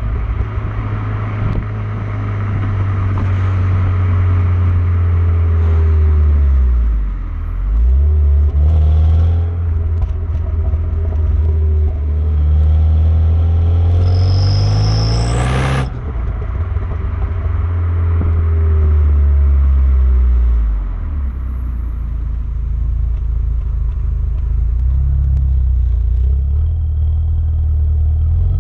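Renault Mégane R26's 2.0-litre turbocharged four-cylinder engine on the standard exhaust, running through the gears, its pitch climbing and then dropping sharply at changes about seven, sixteen and twenty-one seconds in. A loud hiss builds just before the change at sixteen seconds and cuts off suddenly. The engine has an intermittent cough that new injectors have not cured, which the owner puts down to an injector fault or misfire.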